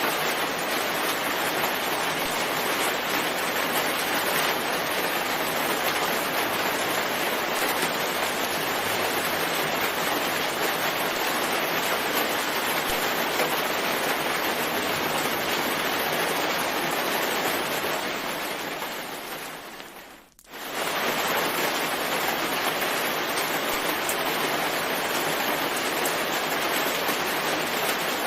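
Steady rain, a dense even hiss. About eighteen seconds in it fades away over two seconds to a brief near-silent dip, then comes straight back at full level.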